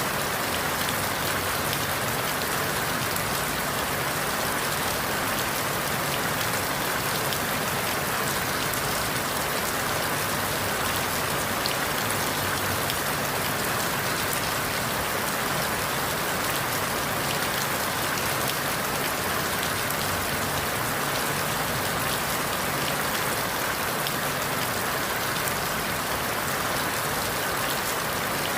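Steady rain falling on forest leaves: an even hiss with scattered drop ticks, unchanging throughout.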